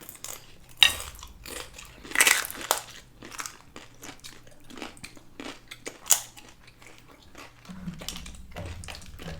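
Close-miked eating sounds: a person chewing and crunching a mouthful of aguachiles with crisp tostada, with many short sharp crunches and wet mouth clicks, a louder bite about two seconds in and another about six seconds in.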